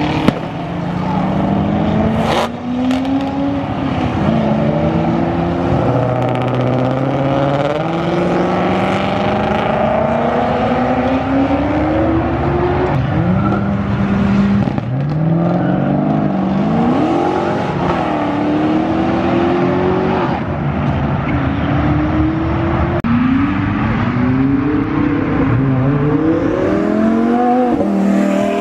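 Several performance cars, one after another, accelerating hard as they pull away, their engine notes climbing and dropping back at each gear change. A sharp crack about two seconds in.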